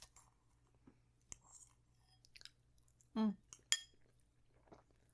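Close-miked chewing of food, with a few sharp crunchy clicks and wet mouth sounds. A brief hummed vocal sound comes about three seconds in.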